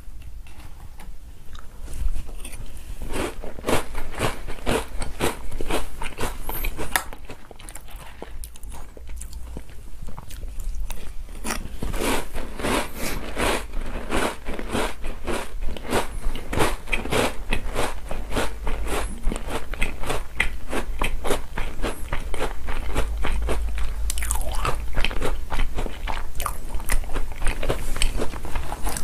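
Close-miked chewing and crunching of chocolate sandwich cookies eaten with chocolate milk, a quick, continuous run of crisp crunches.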